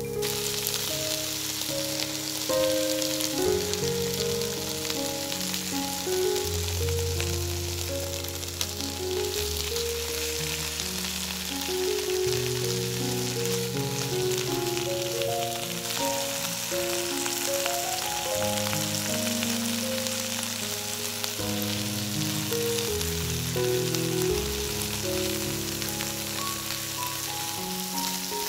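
Whole prawns frying in hot oil in a wok: a steady sizzle that starts as they are tipped into the pan. Background music with a melody plays throughout.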